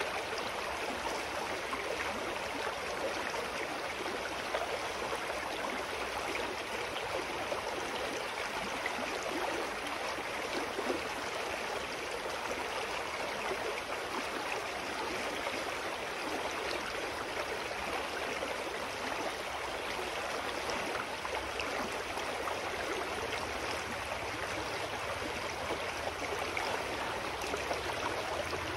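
Clear mountain stream flowing over rocks, a steady rushing and babbling of water.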